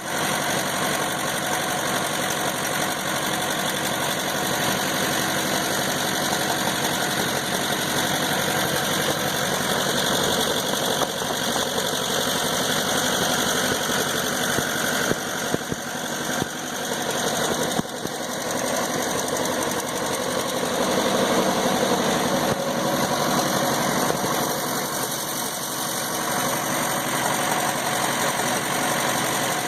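Combine harvester engine running steadily at a constant speed, driving a centrifugal mud pump.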